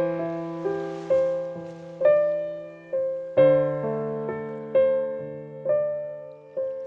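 Slow, gentle piano music: single notes and chords struck roughly once a second and left to ring and fade.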